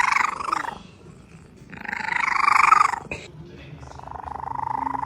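Domestic cat growling: three long, rough, rattling calls, the middle one the longest and loudest. The owner takes the sound for the cat being mean.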